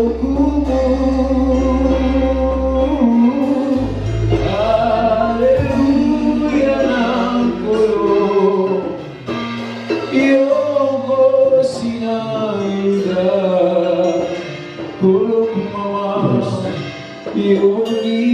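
Live gospel praise-and-worship music: a band with voices singing in Lingala. Low bass notes sound under the singing and drop out about halfway through.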